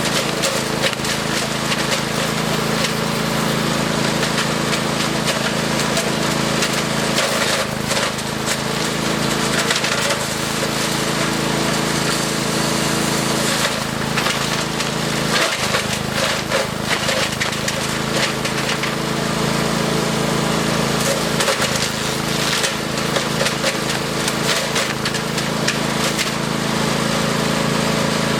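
A wood chipper's engine running steadily while branches are fed through it, with irregular cracking and splintering as the wood is chipped.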